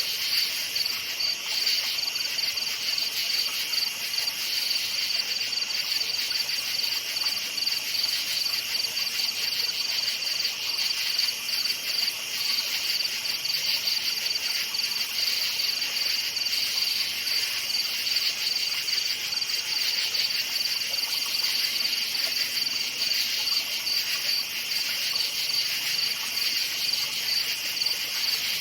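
A chorus of crickets chirping steadily, a dense high-pitched trill of rapid pulses that never lets up.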